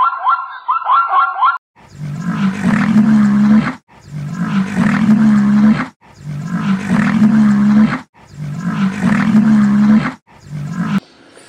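A zebra's call, a quick run of high rising yelps, ends about a second and a half in. Then a white rhinoceros gives five low, drawn-out calls of about two seconds each, evenly spaced with short gaps.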